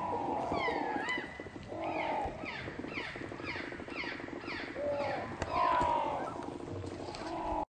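Birds calling: a quick run of short notes that each slide down in pitch, two or three a second, with wavering calls from other birds and a steady low buzz beneath.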